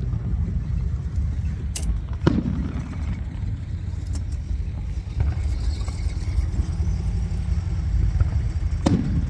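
Two firework bangs, one about two seconds in and one near the end, each trailing off, over a steady low rumble that is the loudest sound throughout.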